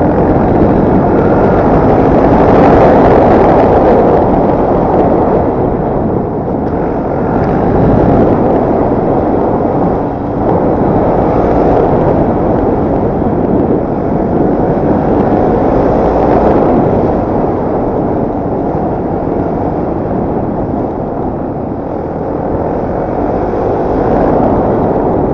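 Dirt bike being ridden off-road, its engine running under load beneath heavy, rough wind noise buffeting the microphone; the loudness surges and eases with no clean breaks.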